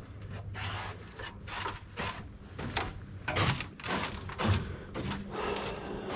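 Footsteps of a person walking on a trail, about two steps a second.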